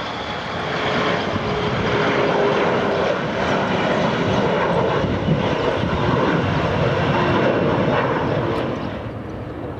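Airliner's engines passing close by: a loud, even roar that swells about a second in, holds, and dies away near the end.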